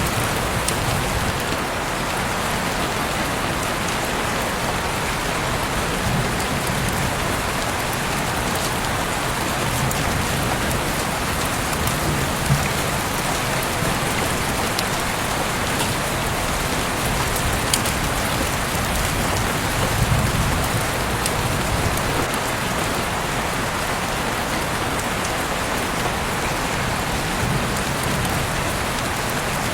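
Heavy rain pouring steadily, a dense even hiss with drops striking surfaces and now and then a sharper drip; a low rumble swells and fades a few times.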